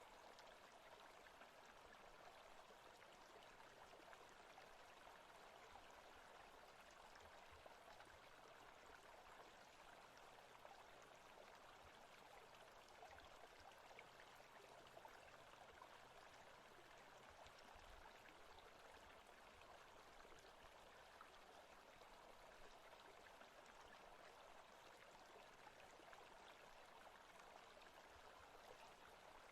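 Faint, steady forest ambience of running water, an even rush that does not change.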